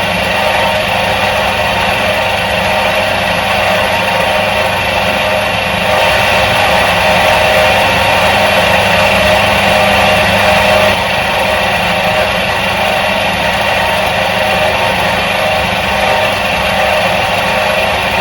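Electric motor of a 1977 Soviet washing machine running steadily with an even mechanical hum. It gets a little louder about six seconds in and drops back about five seconds later.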